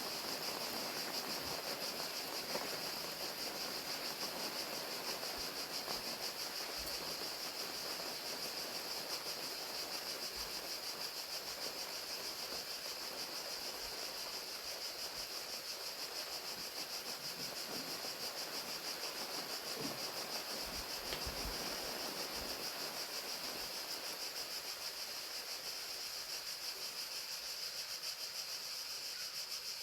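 Crickets chirping in a steady, high, rapidly pulsing chorus over the even hiss of rain.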